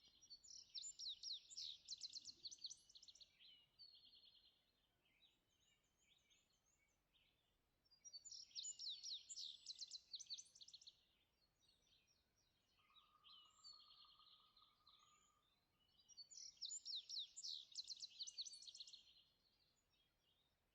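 Faint songbirds singing: three bouts of about three seconds each, every one a rapid series of sweeping high notes, repeated about every eight seconds, with softer scattered calls between and a brief steady whistle-like tone near the middle.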